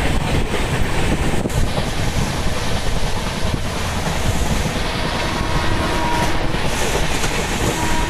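Udyan Express passenger train running along the track: a steady rumble of wheels on rail, with some wind noise.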